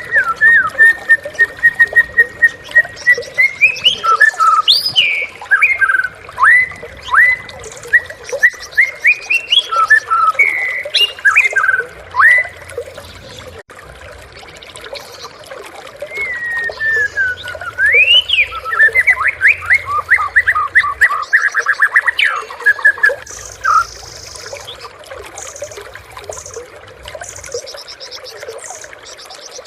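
White-rumped shama singing a loud, varied song: a run of rapid repeated notes at a steady pitch, sharp whistles sweeping up and down, and a fast rattling trill a little past the middle. The song goes quieter for the last few seconds.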